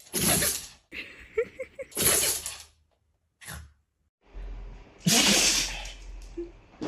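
A dog sneezing three times, each a short sharp burst, spaced about two and three seconds apart.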